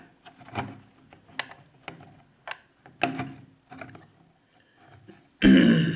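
Handling noise of a small plastic RC boat hull and its wiring: a string of separate light clicks and knocks, then a louder, longer rustling knock about five and a half seconds in.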